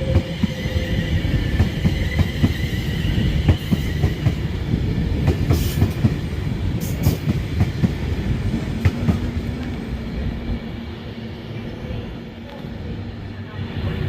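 A train moving along the platform, its wheels clattering over rail joints and points in a dense run of knocks over a low rumble, with a thin high whine in the first few seconds. The noise eases a little near the end.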